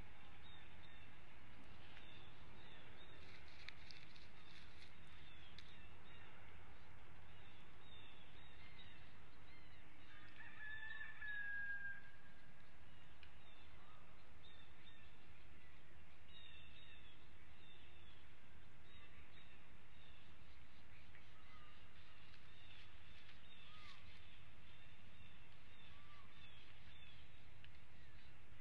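Steady outdoor background noise with many short bird calls scattered throughout, and one clearer whistled note about eleven seconds in.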